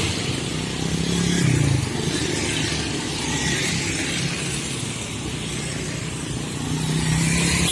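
Road traffic, mostly motorcycles and cars, passing by. Engine hums swell about a second in and again near the end.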